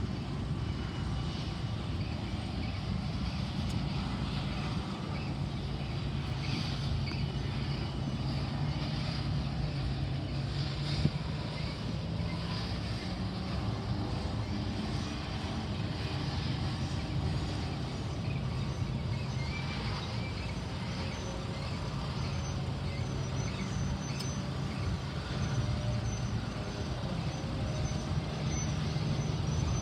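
BNSF freight train rolling slowly past, a steady low rumble of diesel locomotive engines and moving cars.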